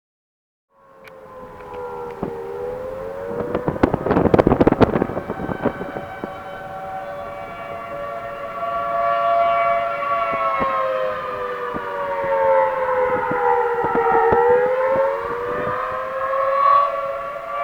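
Outdoor tornado warning siren sounding steadily, its pitch slowly sagging and rising again as it turns. A burst of sharp crackling knocks comes about four seconds in.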